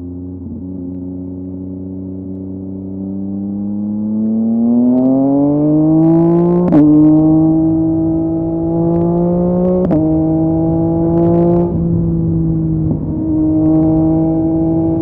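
2023 Yamaha MT-09's inline three-cylinder engine through a LeoVince LV Race exhaust, accelerating hard: the exhaust note climbs steadily. It then changes gear about three times, each change marked by a short crack, and holds a steady pitch near the end.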